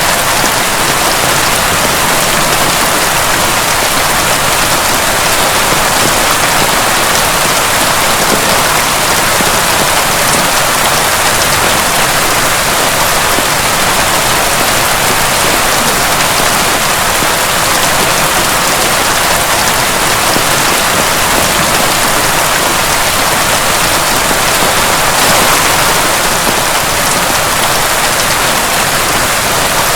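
Heavy rain falling steadily: a dense, even hiss of countless drops, swelling slightly about twenty-five seconds in.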